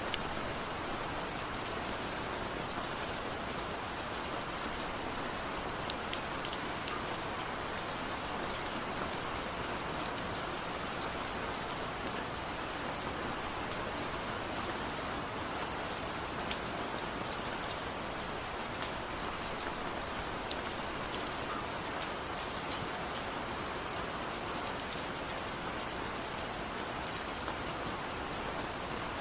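Steady rain falling onto surfaces, an even hiss with many small drop ticks scattered through it.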